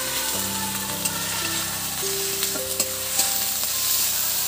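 Onion, ginger and chilli pastes frying in hot oil in a pan, a steady sizzle as the masala is stirred.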